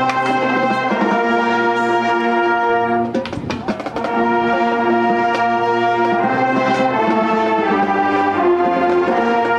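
Marching band brass section playing long held chords. They break off briefly about three seconds in, with a few percussive hits, then resume and shift to a new chord near the end.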